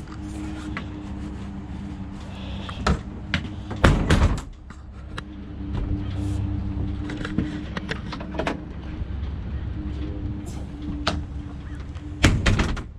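Several knocks and clunks of objects being handled and set down, the loudest about four seconds in and near the end, over a steady low mechanical hum.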